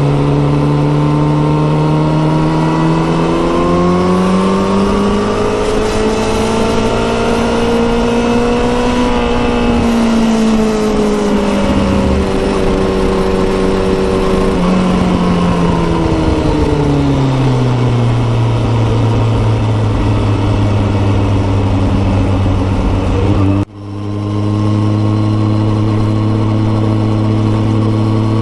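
2017 Kawasaki ZX14R's inline-four engine through a Yoshimura exhaust while riding. The engine note climbs smoothly over several seconds, eases back and holds, then drops to a low steady run. Near the end the sound cuts out for an instant and comes straight back at the same low pitch.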